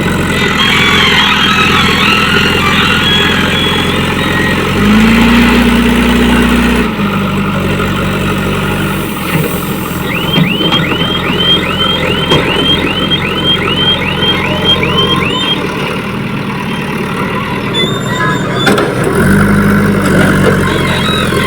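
Heavy diesel engine of a JCB 3DX backhoe loader running steadily, revving up twice: once for about two seconds about five seconds in, and again near the end. In the middle comes a run of about a dozen short rising chirps, roughly two a second.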